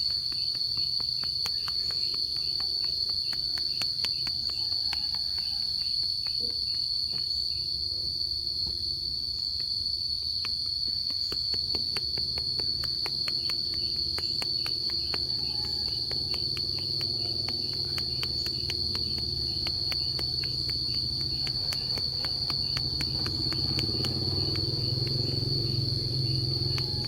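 Insects keeping up a steady, high-pitched drone. A low rumble grows louder near the end.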